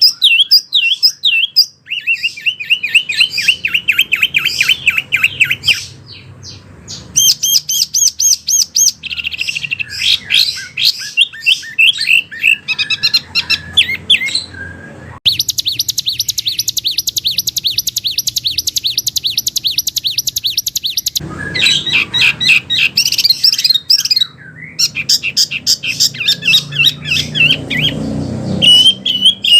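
A wambi songbird singing a long, varied song of fast, high-pitched repeated notes and chattering trills. About halfway through, it holds one long, very rapid, even trill for several seconds.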